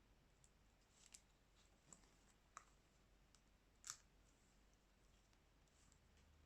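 A handful of faint, sharp clicks and taps of small repair tools against a smartphone's plastic and glass during a screen replacement, scattered irregularly, the loudest about four seconds in.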